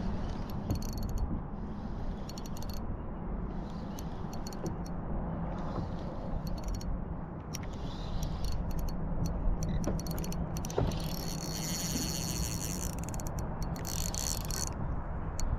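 Fishing reel being wound in, its gears clicking and whirring in spells, over a steady low rumble.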